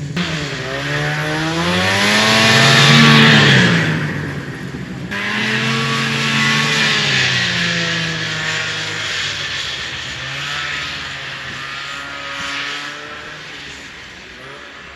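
1974 Arctic Cat Lynx snowmobile's fan-cooled 340 two-stroke engine being ridden hard, its pitch rising and falling several times as the throttle is worked. It fades toward the end as the sled moves away.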